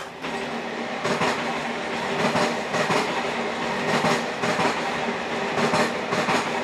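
Diesel train running along the track, its wheels clattering irregularly over rail joints over a steady rumble and hiss.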